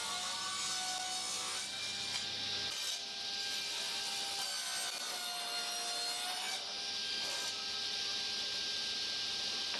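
Steady rasping of wood rubbing against wood, like sanding or a wooden part being worked back and forth, with no pauses.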